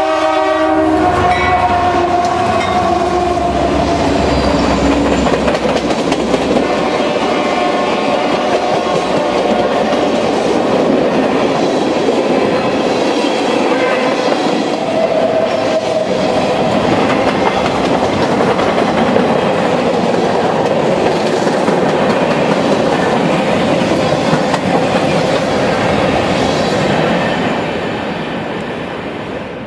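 Canadian Pacific freight train passing close by: the lead diesel locomotive's horn chord ends about a second in, then the locomotives go past with their sound dropping in pitch. Freight cars follow, wheels rolling and clattering steadily over the rails with occasional faint whining tones, and the sound fades near the end as the last cars pass.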